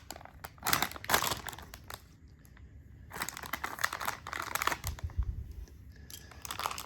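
Crinkly wrapper of a Monster Jam Mini blind pack being torn open and crumpled by hand, in three bursts of rustling with short pauses between.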